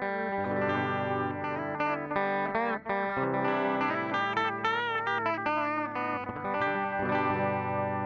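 Electric guitar played through an MXR 113 digital delay: a melodic line of single notes with string bends and vibrato, the notes ringing on and overlapping.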